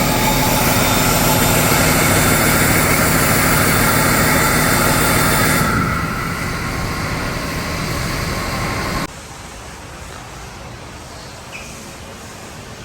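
2008 Cummins ISB 6.7L inline-six turbo diesel running on a test run, with a steady high whine over the engine note; it drops to a lower, quieter note about six seconds in. The engine sound stops abruptly about nine seconds in, leaving only a steady hiss.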